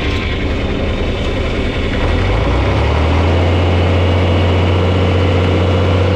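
Farm tractor engine running steadily; about two seconds in, its sound changes and settles into a strong, steady low hum, a little louder than before.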